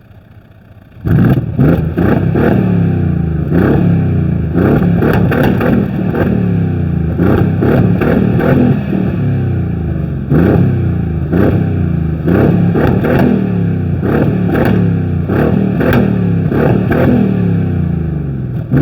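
Mercedes-Benz CLS 500 biturbo V8 through an aftermarket 'stage 1' sound exhaust, loud from about a second in, blipped over and over with its throttle. Each blip revs up and falls back, about once a second, with crackles in the exhaust.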